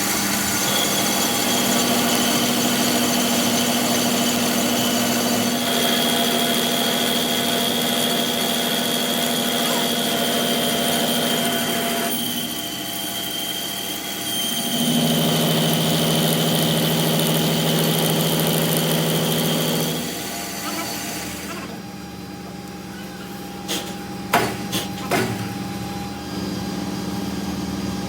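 An electric power tool's motor running steadily with a constant hum and high whine. It eases off about twelve seconds in, runs again at a lower pitch for about five seconds, then stops. A few sharp knocks follow.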